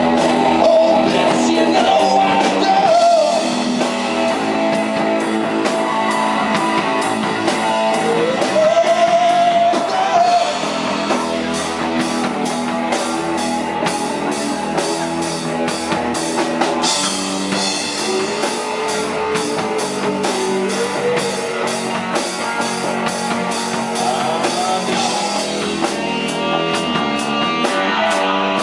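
Rock band playing live: guitars over a drum kit, with a melody line that bends up and down in pitch.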